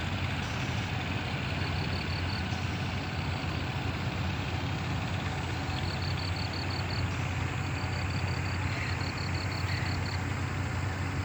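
Engine of a small river ferry boat running steadily with a low, even hum.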